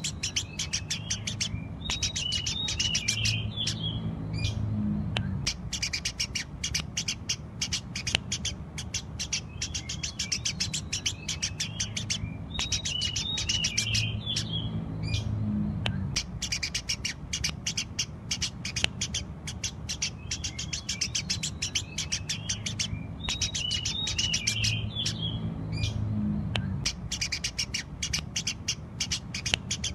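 Eurasian tree sparrows chirping continuously in rapid, dense bursts of short chirps. Busier twittering passages come back about every eleven seconds.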